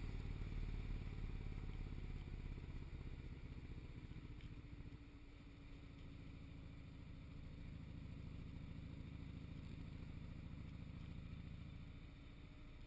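Motorcycle engine running while riding, a steady low rumble that eases off about five seconds in and again near the end.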